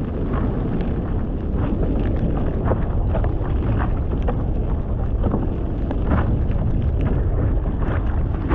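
Wind buffeting the microphone: a steady, loud low rumble with irregular short crackles through it.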